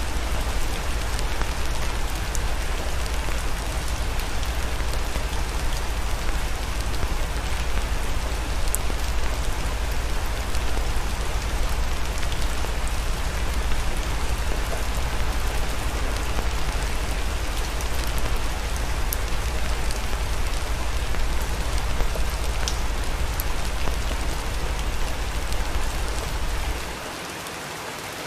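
Steady rain with a deep low rumble underneath and scattered faint ticks. Near the end the rumble drops out and the sound turns quieter.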